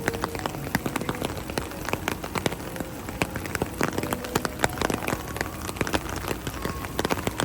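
Heavy rain falling, its drops hitting hard surfaces close by as a dense, irregular patter of sharp ticks.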